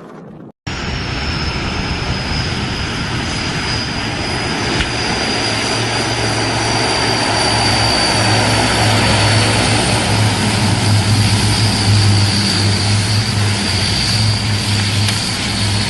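Aircraft engines running loud and close, a steady high whine over a deep rumble. It starts about half a second in, builds over the first several seconds and cuts off suddenly at the end.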